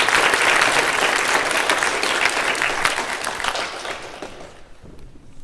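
Audience applauding, with dense clapping that dies away near the end.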